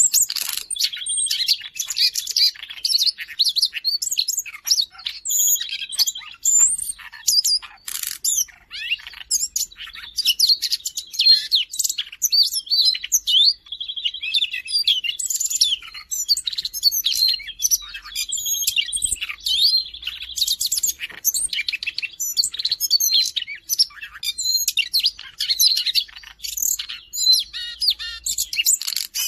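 Siberian rubythroat singing continuously: a fast, varied warble of high chirps, trills and whistles, broken by several short held notes.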